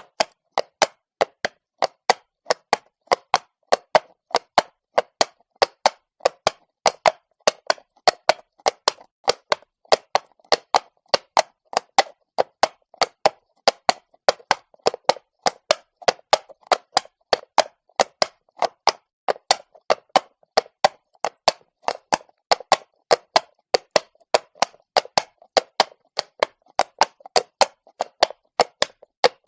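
A horse's hooves clopping on stone at a walk: sharp, dry clops at about three a second, in a steady, even rhythm.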